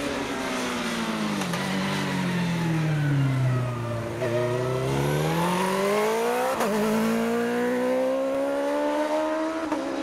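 Superbike racing motorcycle engine at hill-climb pace: the revs fall steadily for about four seconds, then climb again, with a brief break about six and a half seconds in, like a gear change.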